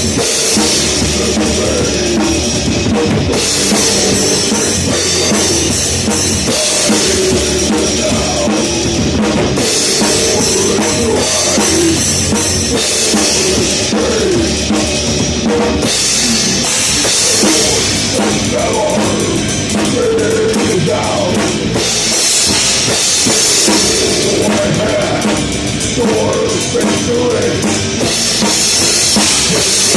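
Heavy metal band playing a song at full volume, heard close to the drum kit through a phone's microphone: drums loud and prominent, with stretches of heavy cymbal playing lasting a few seconds that come and go.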